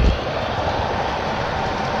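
HO scale model trains running on the layout, a steady rolling rumble of wheels and motors on the track, with a brief low thump right at the start.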